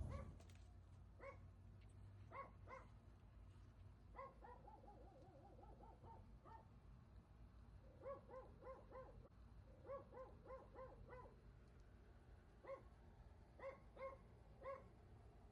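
Faint animal calls: short, pitched yelps repeated in irregular groups, with a quick run of about eight notes around five seconds in.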